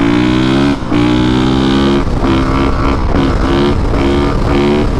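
Honda CRF450R's single-cylinder four-stroke engine under hard throttle. It revs up, dips briefly near the first second as if shifting, holds, then gives a quick run of short throttle bursts, about two or three a second. The engine has power enough to lift the front wheel without trying.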